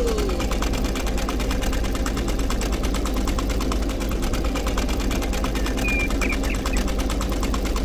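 Small electric motor running steadily, spinning a model windmill's plastic propeller, with a rapid, even ticking.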